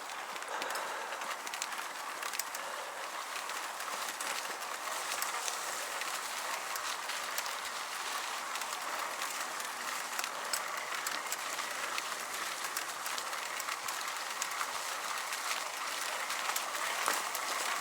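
Bicycle riding over a rough dirt trail: steady tyre and trail noise with many scattered small clicks and rattles.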